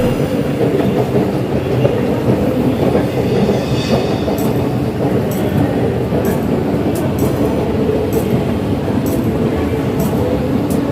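Metro train running, a steady loud rumble and rush with faint light clicks about once a second.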